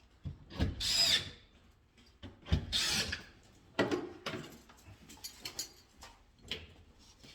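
A power drill-driver runs in three short bursts about a second apart, then small clicks and taps of handling.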